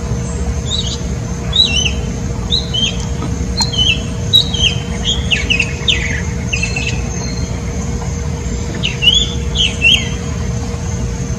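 Small songbirds chirping in quick clusters of short, high, down-slurred notes, over a steady low rumble.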